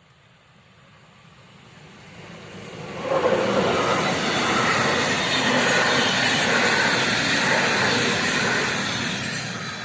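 Passenger train approaching and passing close by, its wheels running on the rails. The sound swells for about three seconds, stays loud while the train goes past, and begins to fade near the end.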